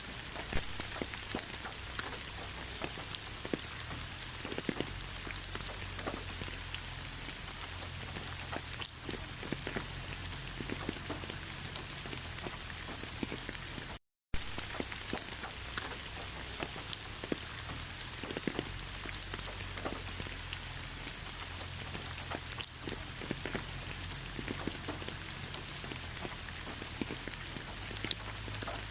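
Steady rain falling, with many separate drops ticking through the hiss. It cuts out to silence for a split second about halfway through, then resumes.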